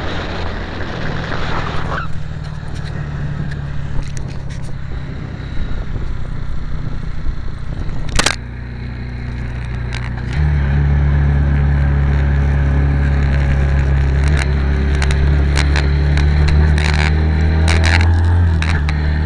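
Steady rumble of a small 125 cc motorcycle on the move, with engine drone and wind on the microphone. There is a sharp knock about eight seconds in, and the rumble turns louder and deeper a couple of seconds later.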